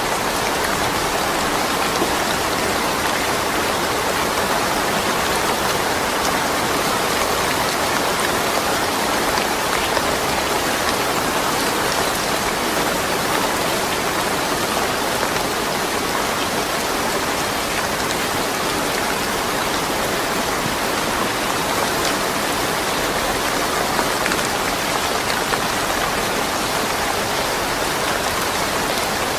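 Steady rain falling, an even patter of drops on surfaces with no thunder.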